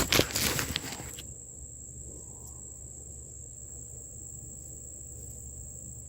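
Crickets trilling steadily in one continuous high-pitched note. In the first second there is a louder burst of rustling as the pepper plants are handled during picking.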